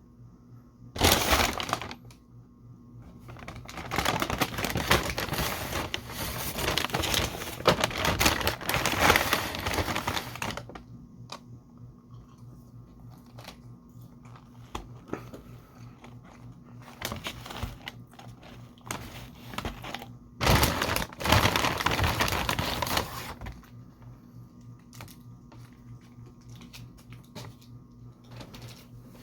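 Food packaging rustling and crinkling as it is handled and opened, in several loud stretches about a second in, from about four to ten seconds in, and from about twenty to twenty-three seconds in, with scattered clicks and taps in between over a faint steady hum.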